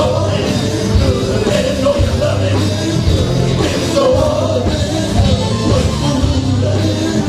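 Live gospel band music: drums keep a steady beat over a heavy bass line, with voices singing over it.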